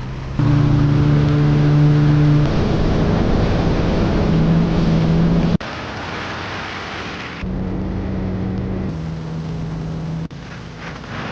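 Jet ski engine running steadily at speed, a constant hum under the rush of water and wind. The sound jumps abruptly in level several times, about half a second, five and a half, seven and a half and ten seconds in.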